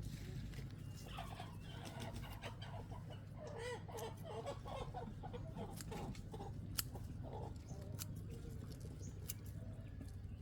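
Chickens clucking in a run of short, broken calls over a steady low hum, with a sharp click about seven seconds in.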